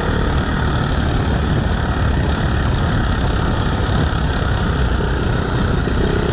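Dirt bike engine running steadily at a constant pace, heard close up with a dense low pulsing and a steady rush of noise over it.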